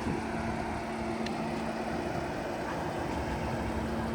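A car engine idling, a steady, even hum.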